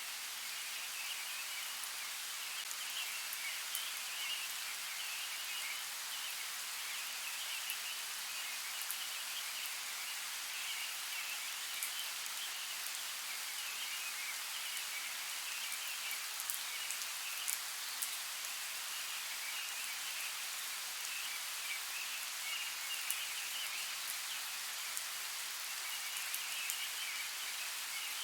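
Steady rainfall, an even hiss with scattered sharp ticks of individual drops striking a surface.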